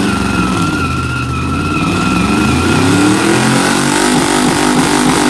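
Four-wheel-drive vehicle's engine held at high revs during a four-wheel burnout. The revs sag in the first second or so, then climb again and hold, with three wheels spinning and the fourth not breaking loose on the dry surface.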